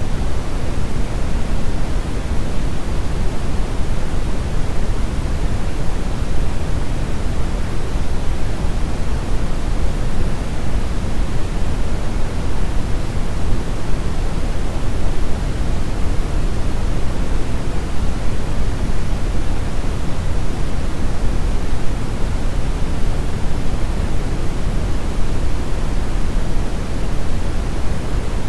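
Steady synthetic brown noise: a continuous, unchanging rumbling hiss, heaviest in the low end.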